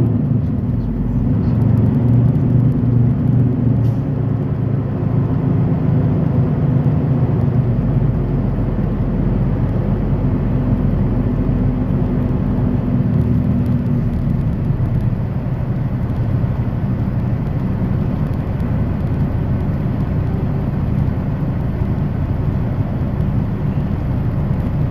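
Semi truck's diesel engine and road noise heard from inside the cab while driving: a steady low drone with no sudden events.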